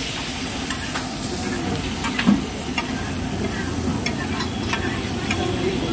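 Oil and masala sizzling on a large flat tawa while a flat spatula scrapes and taps across the metal, stirring the sauce for tawa chicken. The sizzle is steady, broken by scattered short clicks of the spatula.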